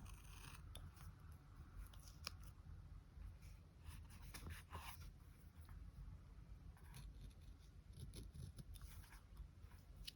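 Scissors cutting paper: a series of quiet, irregular snips and small clicks, over a faint steady low hum.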